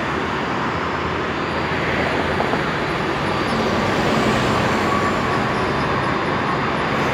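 Steady rushing engine noise with no distinct events, swelling slightly about halfway through.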